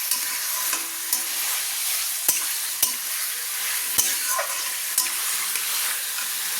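Marinated chicken pieces sizzling in hot oil with onions in a pan as they are stirred on medium flame: a steady high hiss with a few sharp knocks of the stirring utensil against the pan, the clearest about two and four seconds in.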